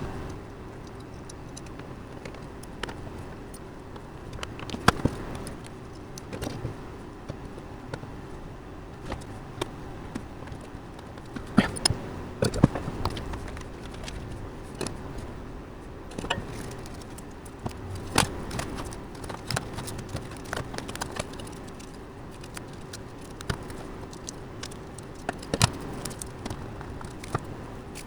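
Scattered clicks, clinks and knocks of small metal computer hardware being handled and fitted into a PC case, over a faint steady hum.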